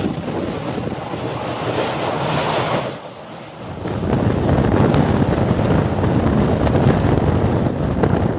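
Wind rushing over the microphone at an open door of the Gatimaan Express running at speed, over the rumble of its wheels on the track. The noise drops briefly about three seconds in, then comes back louder and heavier.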